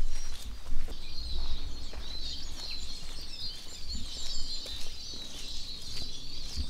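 Small birds singing in woodland: many overlapping high chirps and twitters throughout. A low, uneven rumble sits underneath.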